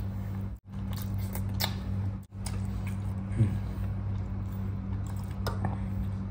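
A person eating rice and fish by hand: soft chewing and small clicks over a steady low hum, with a brief murmur about three and a half seconds in.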